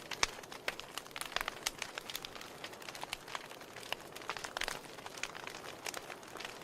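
Wood logs burning in a fireplace, crackling with many irregular sharp pops over a steady hiss of the flames.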